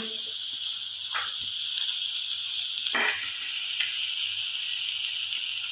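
Onions, garlic and tomatoes sizzling in oil in a frying pan, a steady hiss, with a couple of short scrapes of a steel spoon stirring against the pan, about a second in and again about three seconds in.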